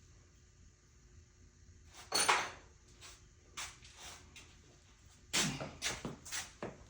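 Hand-tool and parts handling during spark plug work: a loud clatter or scrape about two seconds in, then scattered knocks and rustles, busier near the end.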